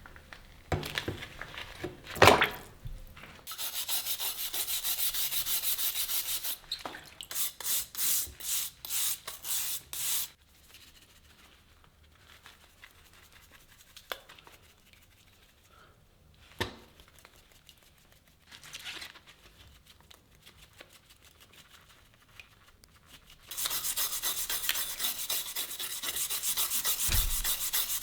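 Abrasive rubbed by hand against a rusty steel knife blade to strip the rust: quick back-and-forth scraping strokes that come in runs, with a quiet stretch in the middle broken by a few knocks, and steady rubbing again near the end. A sharp knock about two seconds in is the loudest sound.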